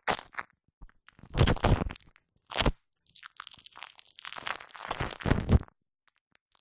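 Shaving foam squished and pressed against a microphone, giving close, crackly squelching in several separate bursts with silent gaps between them.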